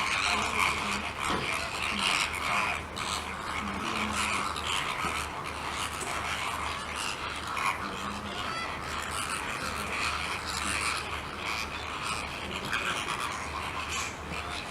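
A flock of flamingos calling, many overlapping calls running on continuously.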